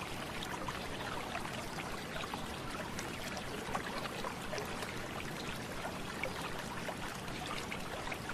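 Steady trickling of a small stream: an even wash of running water with faint little splashes throughout.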